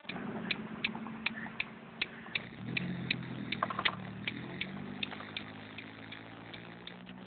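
2002 Ford Focus ZTS's 2.0-litre four-cylinder engine with a 4-2-1 header, 2¼-inch exhaust and cold air intake, heard from inside the cabin under acceleration; its note changes about two and a half seconds in, as at a gear change. A regular clicking, about three a second, runs over it.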